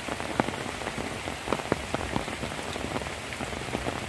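Heavy rain falling through bamboo foliage onto the leaf-littered ground: a steady hiss with many sharp, separate drop taps scattered throughout.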